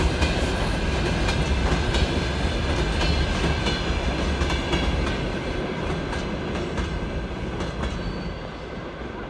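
Freight train of open gondola wagons rolling past, wheels clicking over the rail joints, the rumble fading steadily as the last wagon moves away.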